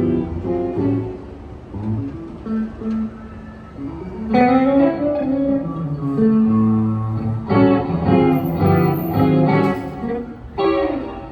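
Guitar playing a run of notes and chords that gets louder about four seconds in.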